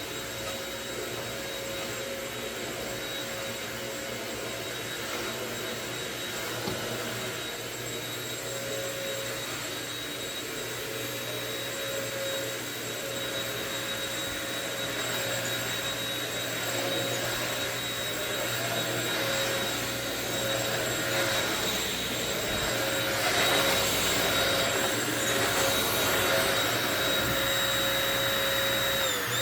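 Euro Pro EP601 900-watt stick vacuum running, a steady high motor whine over a rush of air, growing slowly louder. Near the end the whine dips briefly in pitch and then climbs higher.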